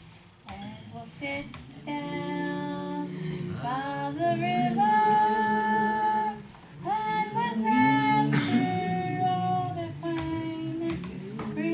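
A woman singing a gospel song with plucked guitar accompaniment, holding long notes.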